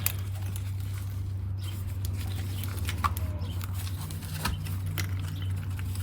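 Scattered light clicks and taps of small metal parts and hand tools being handled while working on an engine's intake and sensors, over a steady low hum.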